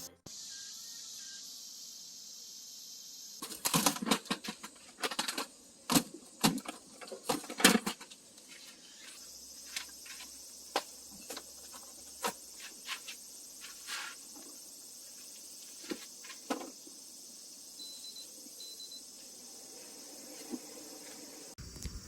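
A quick run of sharp clicks and knocks, loudest between about four and eight seconds in, then single clicks every second or two, over a steady high hiss.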